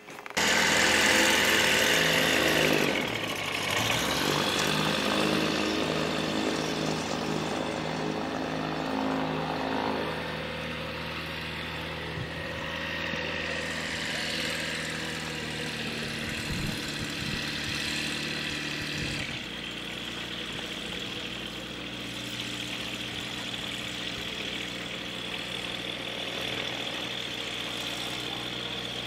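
A light aircraft's piston engine starting abruptly and then running steadily, its note settling lower about two-thirds of the way through.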